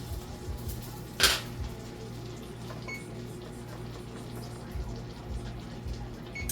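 Microwave oven running with a steady low hum. A single sharp knock comes about a second in.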